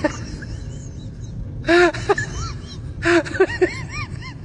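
Short, high-pitched whimpering cries like a baby's, each rising and falling in pitch, a couple of seconds in and again as a run of several cries near the end, over a steady low rumble.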